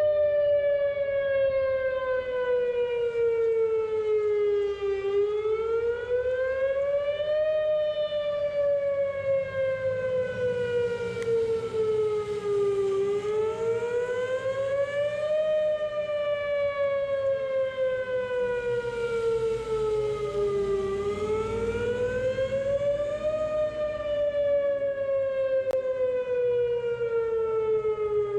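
Outdoor tornado warning siren wailing, its pitch gliding slowly down and back up about every eight seconds. It is sounding a tornado warning.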